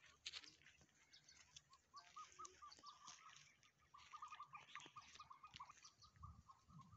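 Faint bird chirping: quick runs of short repeated notes starting about two seconds in, with scattered faint clicks.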